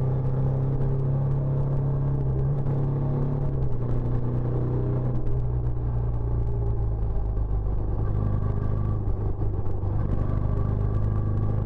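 Benelli Imperiale 400's air-cooled single-cylinder engine running through its stock exhaust, a steady low note that drops slightly in pitch about four seconds in.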